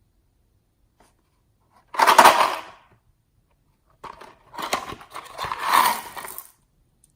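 Slime being worked by hand, giving two bursts of sticky crackling and squishing: a short one about two seconds in and a longer one from about the middle almost to the end.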